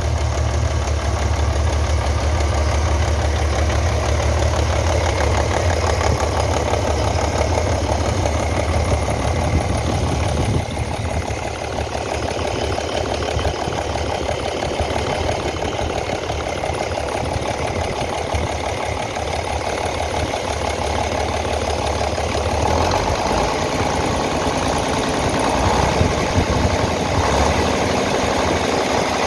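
A-01 six-cylinder diesel engine of a TT-4 tracked skidder running steadily, its sound shifting slightly about ten seconds in.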